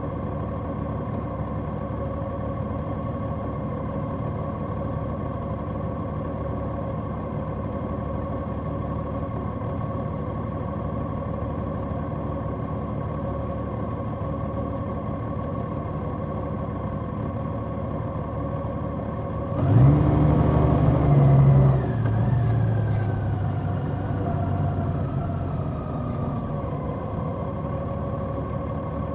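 Large motorcycle's engine running at a steady speed, heard from on board. About twenty seconds in, a louder vehicle sound starts suddenly and then fades over several seconds, its pitch falling as it goes.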